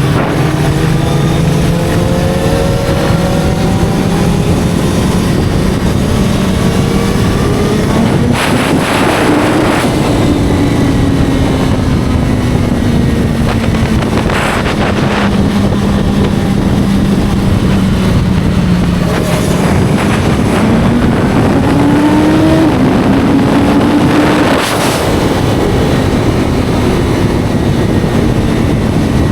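Inline-four sport motorcycle engine running at road speed over heavy wind rush. The revs hold steady, climb about eight seconds in and ease slowly back down, then climb again past the middle and drop back near the end. Brief rushes of noise come a few times.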